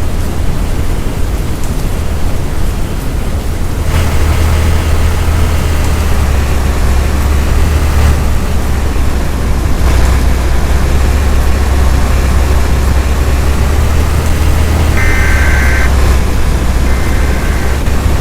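Loud steady rumbling noise, heaviest in the low end, with a faint wavering whine above it. Two short high beeps come near the end.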